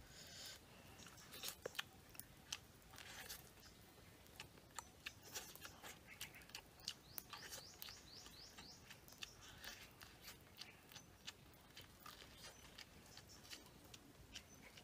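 Crunching and chewing of grilled corn on the cob, in many short crisp crunches. A quick run of high falling chirps sounds about seven seconds in.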